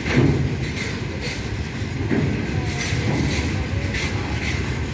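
A goods train's open-top freight wagons rolling past on the rails: a steady low rumble, with a clunk of wheels over rail joints about once a second.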